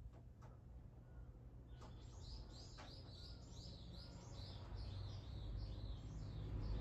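A songbird singing a faint run of quick, repeated high notes, about three a second, starting about two seconds in and lasting some four seconds.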